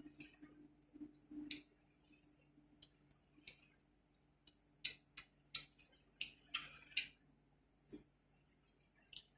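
A series of irregular light clicks and taps, about a dozen, clustered most densely in the middle of the stretch, over a faint steady hum.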